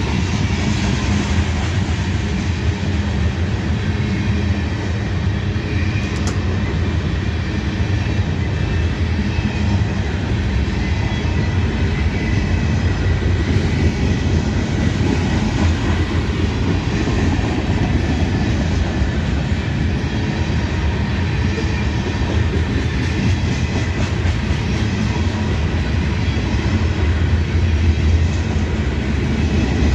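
Freight train rolling past on the rails, a steady loud rumble of steel wheels on track.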